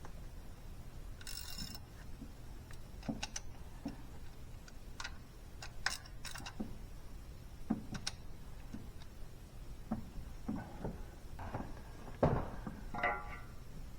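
Irregular light clicks and metallic knocks, like hand tools and small parts being handled during engine work, with a short squeaky tone about a second before the end.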